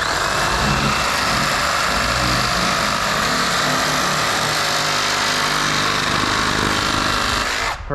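A power saw cutting through plastic drain pipe: one steady run of motor and cutting noise that starts suddenly and cuts off just before the end.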